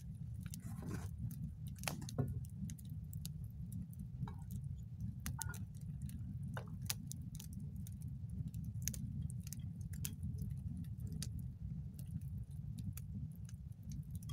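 Wood campfire crackling: many sharp, irregular snaps and pops over a steady low rumble.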